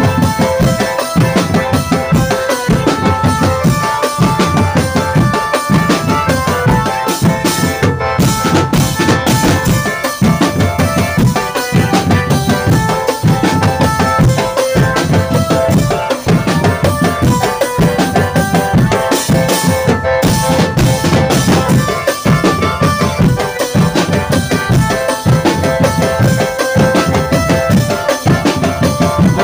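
Drum band music: a steady, loud drum beat with a melody played on top.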